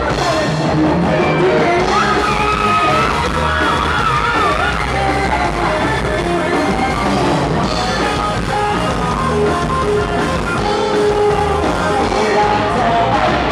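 Live rock band playing with singing, the lead voice or guitar holding a long wavering note a couple of seconds in.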